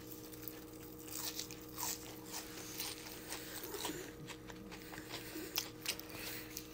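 A person biting into a homemade fried onion ring and chewing it close to the microphone, with irregular small crunches and mouth clicks.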